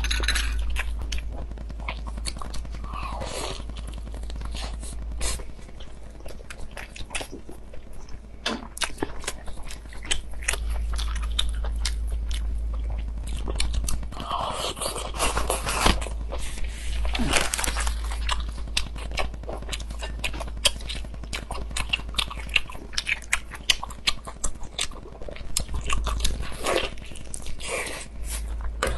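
A person biting and chewing food close to the microphone, with many small wet mouth clicks, over a steady low hum.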